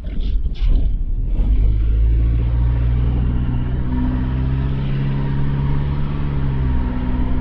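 Car engine running and road noise heard from inside a moving car. The engine's pitch rises a little about four seconds in and drops back near the end. A few brief rustling noises come in the first second.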